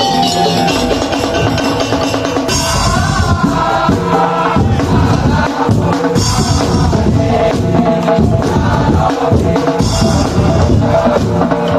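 Madurese ul-daul (tong-tong) ensemble playing: drums and percussion keep a steady beat under a melodic line.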